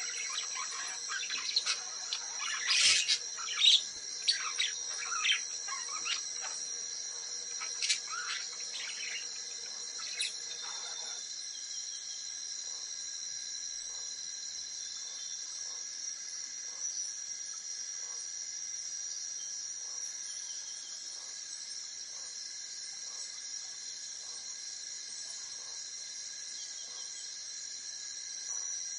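Steady, high-pitched insect chorus with a scatter of bird calls and chirps over the first ten seconds or so, loudest about three to four seconds in; after that only the insect drone carries on.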